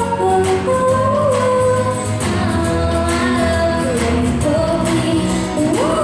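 A female vocalist singing a pop song over an instrumental backing with a steady beat, her held notes sliding between pitches.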